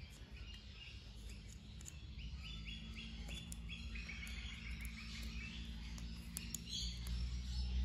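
Faint birds chirping in the background, with a quick run of short, rapidly repeated chirps through the middle, over a low steady hum.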